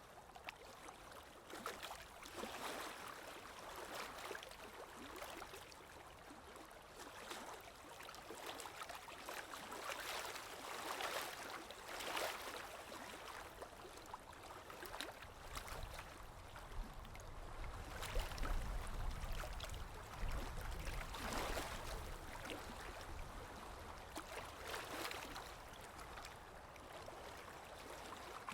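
Sea waves washing onto a shore in irregular surges a few seconds apart, with a low rumble for a few seconds past the middle.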